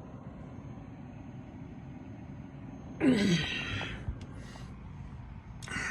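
A man's loud, breathy sigh with a falling pitch about halfway through, and another breath starting near the end, over a steady low background hum.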